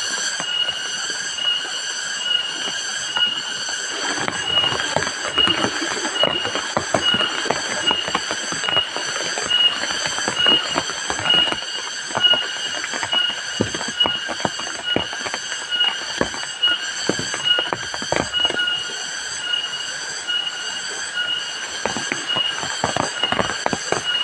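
A high, rhythmic insect chirping, pulsing about twice a second, with heavy rain setting in about four seconds in: many large drops striking close by over the hiss of the downpour.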